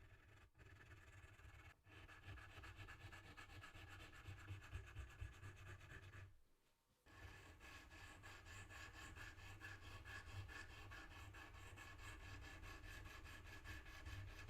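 Faint, fast, even scratching and rubbing of a tool working on a watch case, over a low steady hum; it cuts out briefly about six and a half seconds in.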